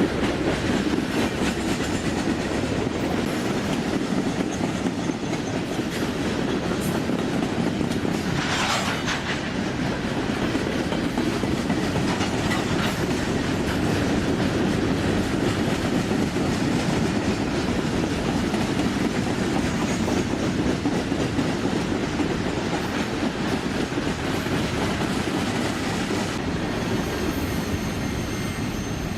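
Railroad cars rolling past, a steady rumble with the clickety-clack of wheels over rail joints. About eight and a half seconds in, a brief sharper noise rises over it.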